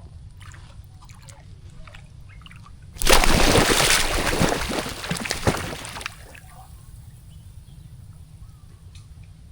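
Water splashing and sloshing: a loud burst that starts suddenly about three seconds in and dies away about three seconds later, over a steady low rumble.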